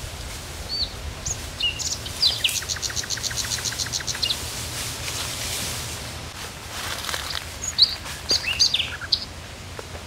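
Wild birds chirping and calling: scattered short high chirps, and a rapid trill of evenly spaced notes about seven a second for nearly two seconds, over a steady low background hum.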